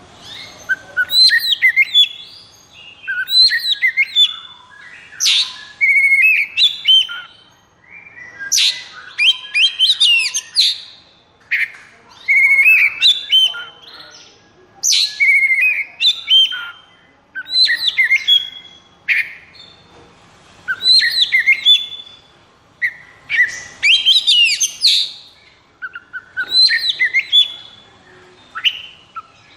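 Oriental magpie-robin (kacer) singing loud, varied phrases of clear whistles and rapid trills. A new phrase comes every second or two, with brief pauses between.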